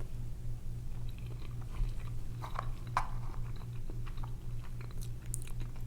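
A person chewing food with soft, occasional mouth clicks, over a steady low hum.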